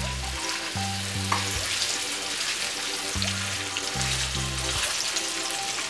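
Thin-sliced chicken breast sizzling in hot oil in a frying pan, a steady crackling hiss. Background music with a pulsing bass line plays underneath.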